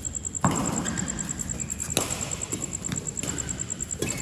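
A ball struck back and forth in a doubles rally: three sharp hits about one and a half to two seconds apart.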